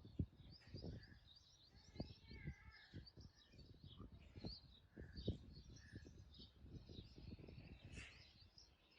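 Faint small birds chirping repeatedly in the background, with irregular soft low thuds.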